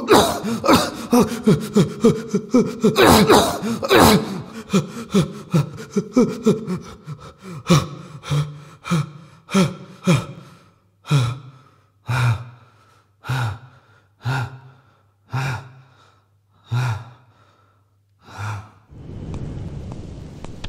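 A man's heavy gasping breaths, rapid and voiced at first, then slowing to about one a second and growing fainter. Near the end they give way to a steady hiss of ambient noise.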